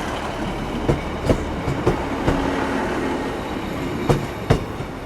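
Class 150 Sprinter diesel multiple unit rolling into the platform over a steady rumble, its wheels clicking irregularly over rail joints and pointwork, with the sharpest clicks about four seconds in.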